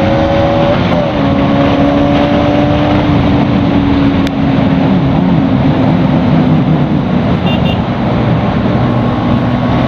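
Bajaj Pulsar NS200's single-cylinder engine running steadily at road speed under a heavy rush of wind noise. Its pitch dips briefly about a second in, then steadies again.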